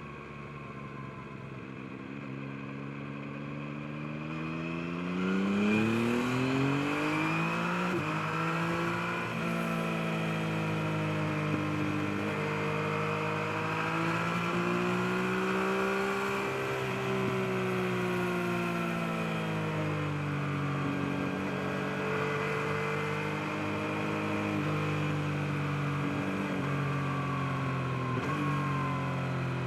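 Yamaha MT-09's 890 cc inline-three engine pulling under way, its note climbing with the revs and dropping sharply at gear changes about eight seconds in and near the end, rising and easing off in between.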